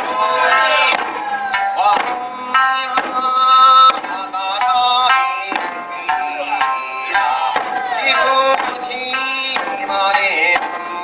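Live music from a stage performance: melodic instruments playing a quick-moving tune with sharp note attacks.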